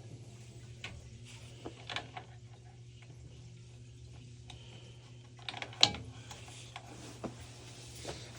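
Scattered clicks and light knocks of metal parts and hand tools being handled while a gas water heater is put back together, with one louder knock about six seconds in, over a steady low hum.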